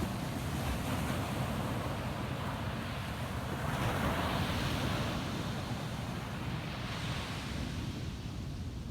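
Ocean waves breaking and washing up a beach, a steady surf wash that swells about four seconds in and eases near the end, with wind buffeting the microphone as a low rumble.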